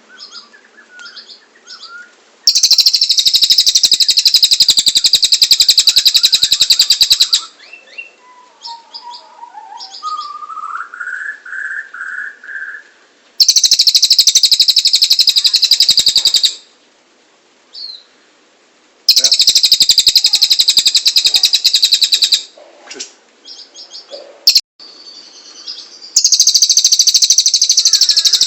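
Cililin bird singing: four long, loud trills of very fast repeated high notes, each lasting several seconds, with softer chirps and calls in the pauses between them.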